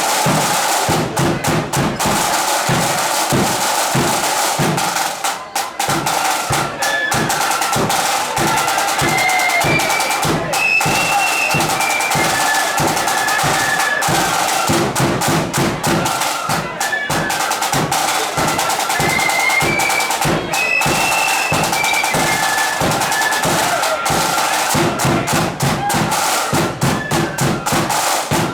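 Marching flute band playing a tune: flutes carry a high melody over rapid snare drum strokes and bass drum beats.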